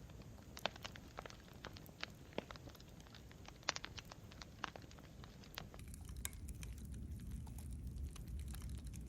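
Campfire crackling, with irregular sharp pops and snaps over a low rumble of burning wood; the pops thin out and the low rumble grows louder about two-thirds of the way through.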